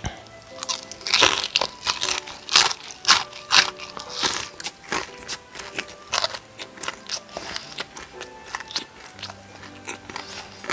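Close-miked biting and chewing of crispy Korean fried chicken: a rapid run of sharp crunches, thickest in the first half, easing into sparser chewing. Soft background music plays underneath.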